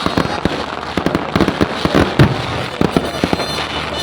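Fireworks going off in quick succession: a dense run of sharp bangs and crackles, several a second, with a louder bang about two seconds in.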